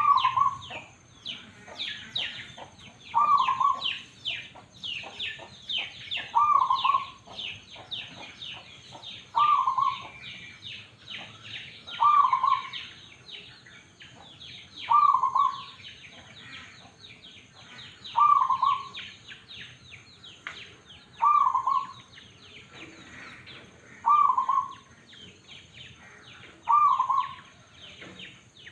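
Zebra dove (perkutut) cooing, a short low coo repeated about every three seconds. Quieter, rapid high chirps from other small birds run underneath.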